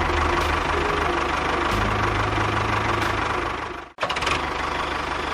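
A small engine running steadily with a low hum, cutting out for an instant just before four seconds in, then running on.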